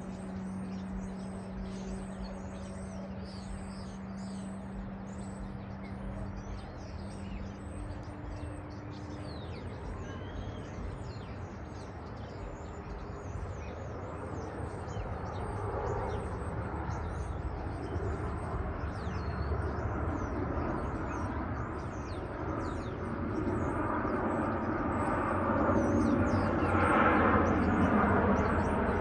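Birds chirping steadily over a low hum that fades out after a few seconds, while the noise of an aircraft taking off builds from about halfway through and is loudest near the end.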